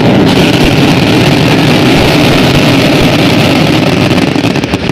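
Fireworks going off in a loud, continuous hissing and crackling roar, with separate sharp cracks standing out near the end.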